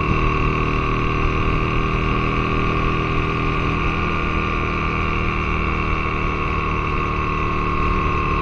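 Aprilia Tuono motorcycle engine heard on board at high, fairly steady revs, mixed with wind noise, the pitch drifting slowly down.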